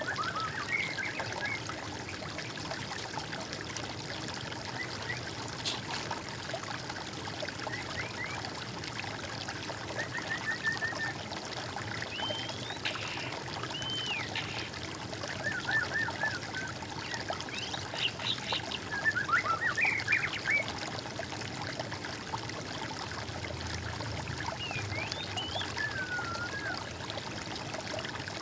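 Water trickling steadily in a stream, with songbirds singing short whistled and warbled phrases over it now and then, the loudest burst of song about two-thirds of the way through.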